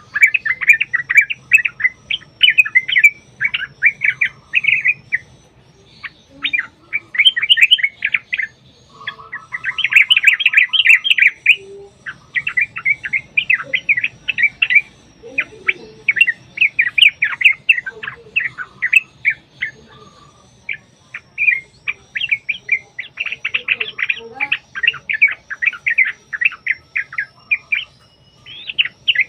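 Yellow-vented bulbul (trucukan) singing in bursts of rapid, chattering notes, each burst lasting a few seconds with short pauses between.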